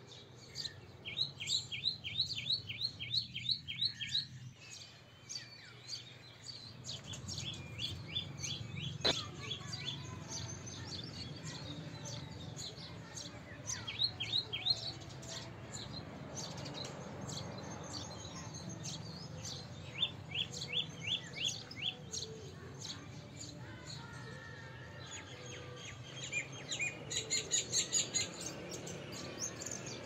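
A bird chirping in several bursts of quick, short high notes, each burst lasting a second or two, over a steady low rumble of background noise.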